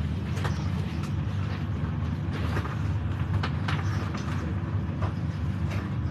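Inside a high-speed passenger train in motion: a steady low rumble, with scattered short clicks and rattles.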